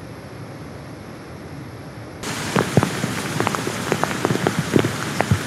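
A steady rushing noise for about two seconds, then heavy rain falling on a surface close by, with many sharp individual drop hits.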